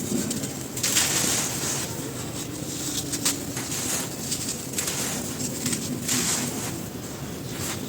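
Crispy, dry, dusty cylinders crumbling and crunching, a steady run of crackling snaps with louder crunches every second or two.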